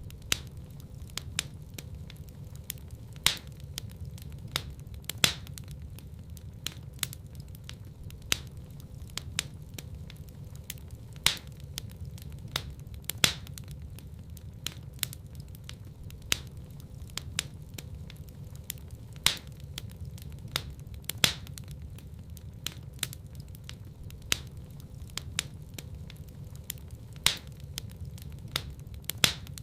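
Wood fire crackling in a fireplace: irregular sharp pops and snaps, a few of them loud, over a steady low rumble of the burning flames.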